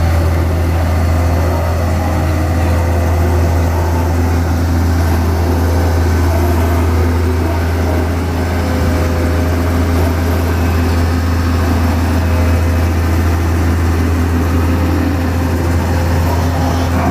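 Diesel engine of a vibratory road compactor running steadily under load, a loud constant low hum with no change in pace.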